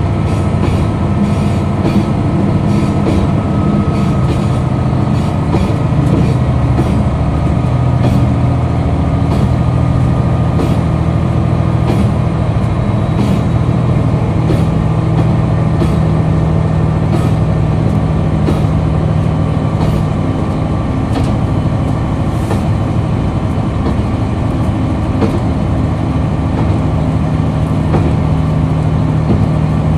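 KiHa 261 series diesel railcar's engine running steadily under way, a loud low drone that shifts slightly in pitch, with light ticks of the wheels over the rails on top.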